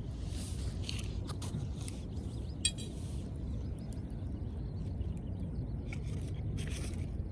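Wood campfire crackling with scattered small pops and one sharper pop a little under three seconds in, over a steady low rumble.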